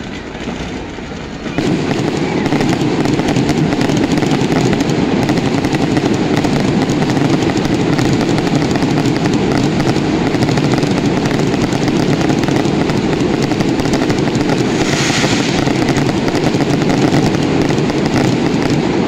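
Fireworks barrage going off close by: a dense, continuous crackling and popping that jumps up in loudness about a second and a half in, with a sharper high burst around fifteen seconds.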